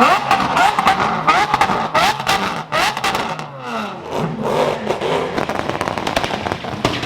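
A car engine revving up, with a long run of sharp irregular exhaust cracks and pops, amid crowd voices.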